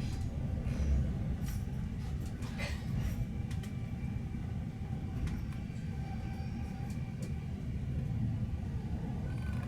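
Inside a Swiss SBB InterRegio passenger train on the move: a steady low rumble of the carriage running on the rails, with a few faint clicks and rattles.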